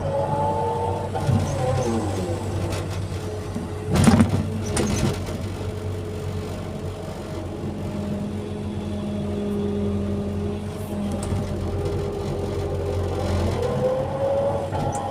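Hydraulic excavator's diesel engine running steadily under load, its pitch rising and falling as the machine works. A loud thump about four seconds in.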